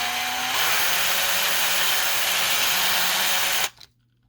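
Small electric drill spinning up and drilling steadily, most likely drilling out a rivet in a diecast metal model's base, then stopping abruptly near the end.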